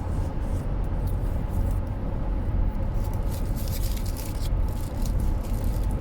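Steady low rumble of a car on the road heard from inside the cabin. Light rustling and crackling over it, heaviest about three to four and a half seconds in.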